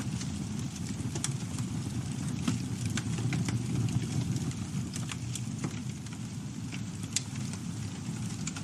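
Campfire burning: a steady low rumble of flames under irregular crackles and pops of burning wood, with one sharper pop about seven seconds in.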